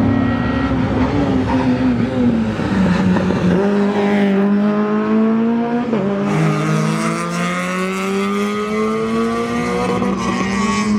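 Rally car engine under hard acceleration at high revs. The engine note climbs, drops sharply at a gear change about six seconds in, then climbs again through the next gear.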